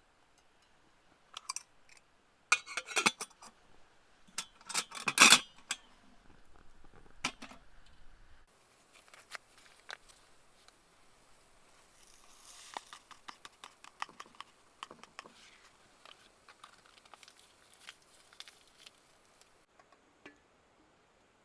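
Hands handling camp cooking gear: scattered clicks and knocks, loudest in a cluster about five seconds in, followed by a long stretch of soft rustling and scraping with small ticks.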